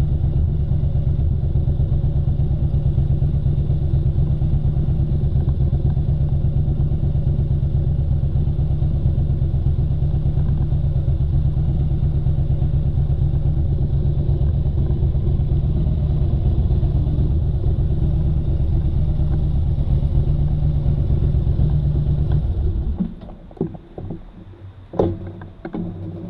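Motorcycle engine running steadily at an even pitch, then shut off about 23 seconds in, followed by a few short knocks and clatter.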